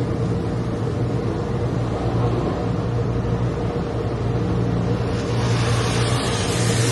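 Steady car engine and road hum inside the cabin, with a hiss that grows louder about five seconds in.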